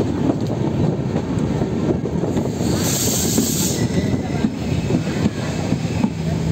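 Passenger coach of the 12991 Udaipur–Jaipur Intercity Express running along the track, its wheels clattering over the rails, heard from the open coach door. A short hiss about three seconds in.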